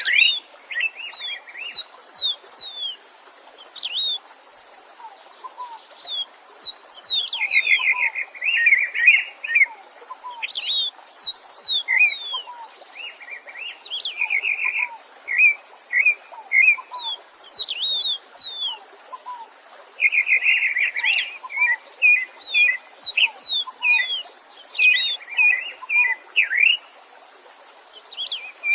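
Songbirds singing in repeated phrases of quick down-slurred whistles and rapid trills, over the faint steady hiss of a stream.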